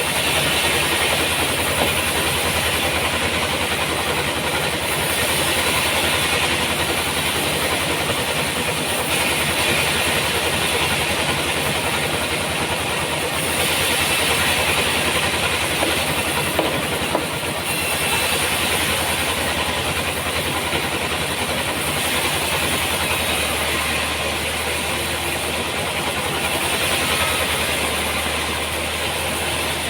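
Sawmill running steadily through a trembesi log, a constant machine noise with a strong hiss that swells and eases every few seconds.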